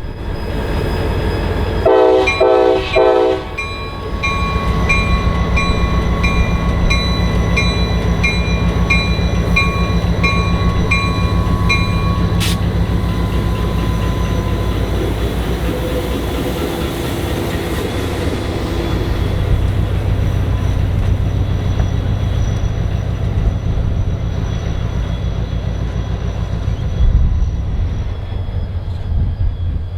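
Diesel locomotive horn sounds three quick blasts. Then a bell rings steadily, about one and a half strikes a second, for roughly eight seconds, over the steady low running of the diesel locomotives as the train moves.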